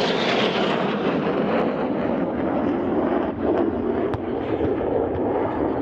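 Jet aircraft passing in a flying display: a steady, loud rush of jet engine noise whose high end slowly dulls as the aircraft moves away.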